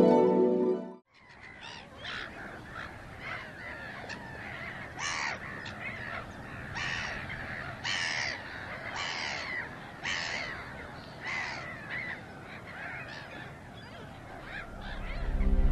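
Plucked, harp-like music cuts off about a second in, followed by birds calling over and over, about one call a second.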